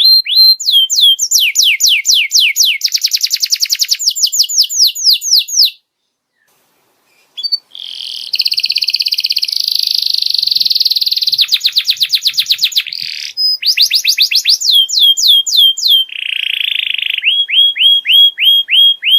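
Domestic canary singing: phrases of rapidly repeated, falling whistled notes alternating with fast rolling trills. The song cuts off suddenly for about two seconds just before halfway, then resumes with a buzzy rolling trill and more runs of falling notes.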